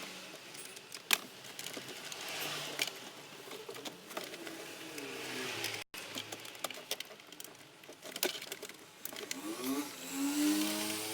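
Scattered clicks and knocks of hands and tools working on plastic dashboard trim, with one sharp click about a second in. A few short wavering tones sound in the background near the middle and near the end.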